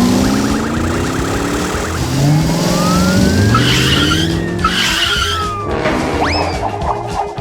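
Cartoon car-chase sound effects: engines revving in rising sweeps and a police siren wailing up and down, with two tyre screeches about halfway through. Background music takes over for the last second or so, with quick rising whistle-like glides.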